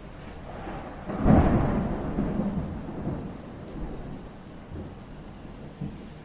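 A clap of thunder about a second in, rumbling and slowly dying away over the next few seconds, over a steady hiss of rain.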